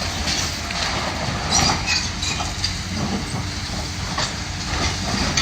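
Heavy demolition machine's engine running steadily under the irregular crunching and clattering of concrete and brick debris being torn down, with the loudest crashes about a second and a half and four seconds in.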